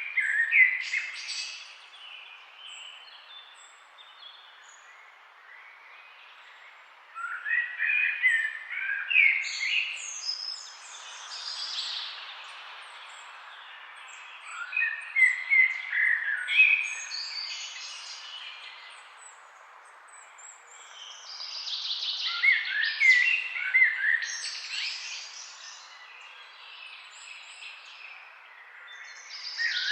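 Birds chirping in the trees, in bursts of a few seconds each: several quick chirps and short trills overlapping, with quieter gaps between, over a steady faint background hiss.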